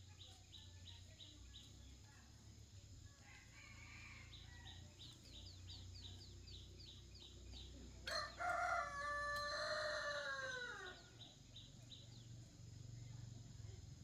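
A rooster crowing once, about eight seconds in: one call of about three seconds that falls away at the end. A fast, even chirping of about five ticks a second runs behind it.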